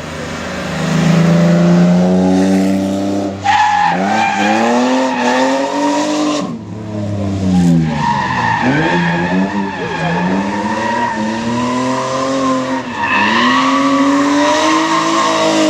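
BMW E30 drifting: the engine revs rise and fall again and again as the rear tyres squeal, the squeal wavering in pitch and dropping out for a moment midway.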